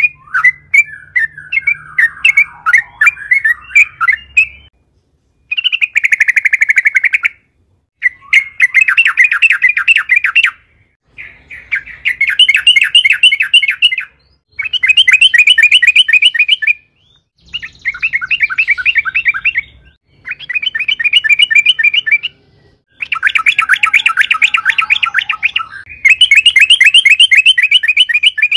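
Yellow-vented bulbul (trucukan) singing: a few scattered chirps at first, then repeated bursts of fast chattering trills, each one to three seconds long with short pauses between.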